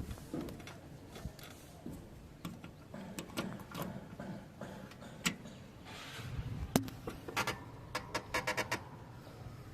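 Backhoe loader's diesel engine running low, with scattered sharp clanks and knocks and a quick run of rattling clicks near the end.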